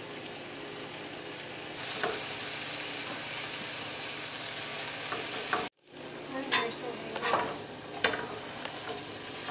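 Turkey burgers sizzling in a frying pan, the sizzle getting louder about two seconds in. After the sound cuts out briefly past the middle, a utensil scrapes and taps against the pan several times over the sizzle.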